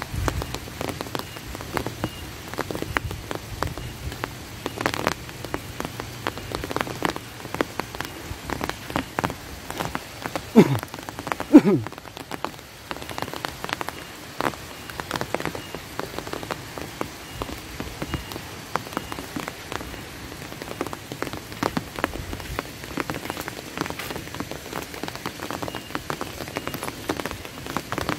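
Steady rain with many sharp drop taps close by. About ten and eleven seconds in come two short, loud sounds that slide down in pitch.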